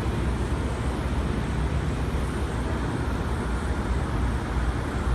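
Steady low rumble and hiss inside an R160B Siemens subway car.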